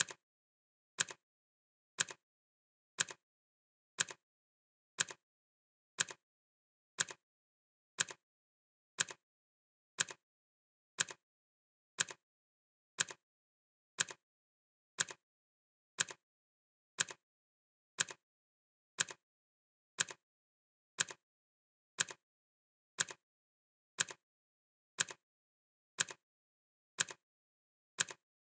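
Clock ticking sound effect, one crisp tick each second, with silence between the ticks.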